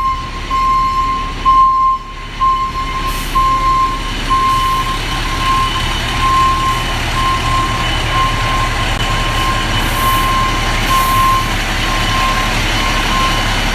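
Fire truck's backup alarm beeping about twice a second while the truck reverses, over the steady low rumble of its engine.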